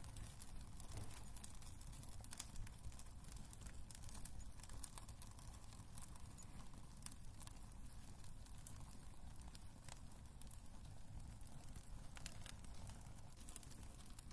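Wood fire burning in a fireplace, crackling faintly: irregular small pops and snaps over a low rumble of the flames.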